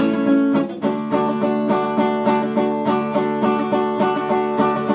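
Strummed acoustic guitar music in a steady, even rhythm.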